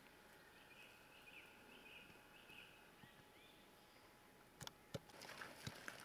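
Near-silent outdoor background with faint, distant bird chirps: a short run of repeated high notes in the first half. Two quick sharp clicks sound near the end.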